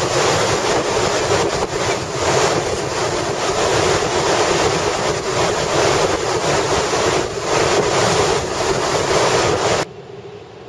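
Storm-force wind buffeting the microphone in gusts, a loud rushing noise that swells and dips. Near the end it cuts off suddenly to a much quieter steady hiss.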